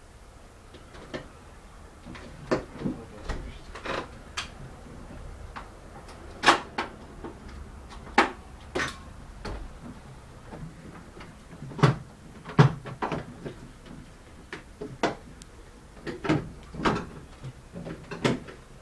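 Irregular knocks, clicks and clatter of things being handled and bumped, about twenty sharp strokes spread unevenly, with no engine running.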